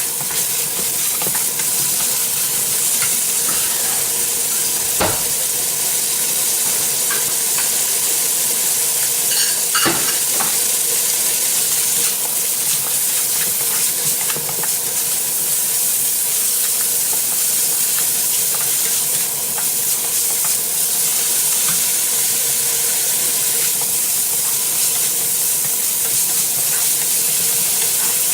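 Pork pieces sizzling in hot oil in a frying pan as they are browned, with a spatula stirring them and knocking against the pan now and then.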